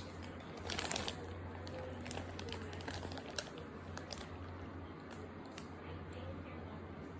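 Faint rustling and scattered light clicks over a steady low hum.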